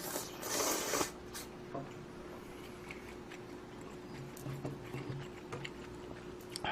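Eating sounds of instant budae-jjigae ramen: a short, loud noisy slurp just after the start, then quiet chewing with small clicks, over a faint steady hum.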